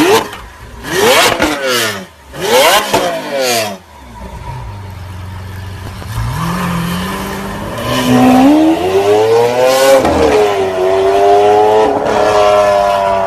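Lamborghini Aventador SV's V12 engine revved hard three times, each rev dropping quickly back. It then settles to idle and pulls away, the engine note climbing, with a short dip like a gear change about ten seconds in.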